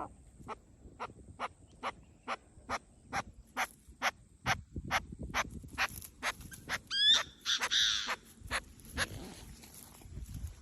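A bird giving a regular series of short, sharp calls, about two a second, with a quick run of rising chirps and a longer, harsher call about seven seconds in.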